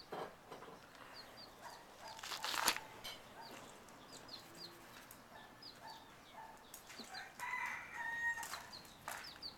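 Chickens: repeated short high chirps, a brief flutter of wings about two and a half seconds in, and a louder clucking call near eight seconds.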